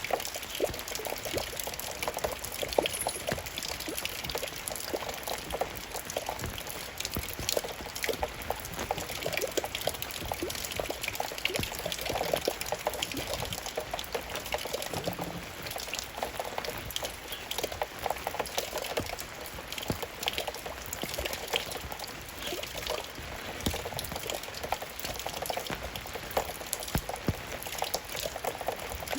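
Steady rain: a continuous wash of many small drop hits, dense and irregular, with a running-water sound beneath.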